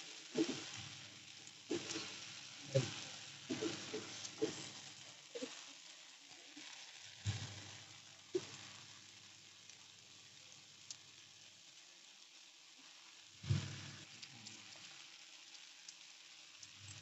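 Chicken frying in oil in a wok, giving a faint steady sizzle. A spatula stirs and knocks against the wok several times in the first half, and once more later on.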